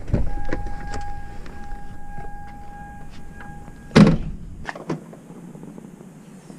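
A vehicle door shuts with a loud thunk about four seconds in, after a steady electronic warning tone that stops just before it; a smaller knock follows.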